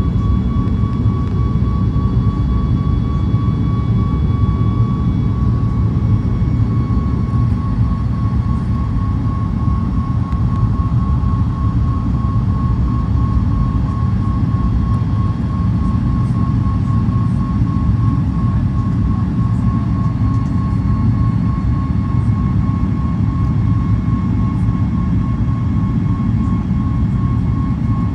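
Passenger-cabin noise of a Boeing 737 MAX with its CFM LEAP-1B engines running: a steady, loud low rumble under a steady engine whine.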